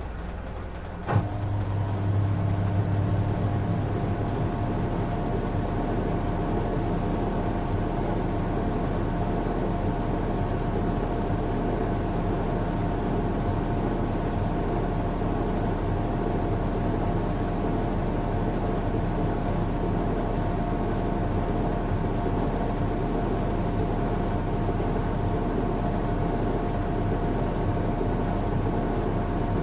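Washing machine running on a strong cycle: a steady motor hum with whirring noise. About a second in there is a sharp click, and the sound steps up louder and stays level after it.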